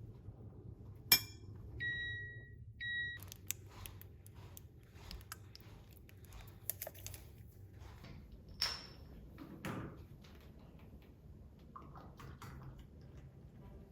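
A sharp click, then two short electronic beeps from a kitchen appliance, followed by scattered light clicks and knocks of kitchenware being handled.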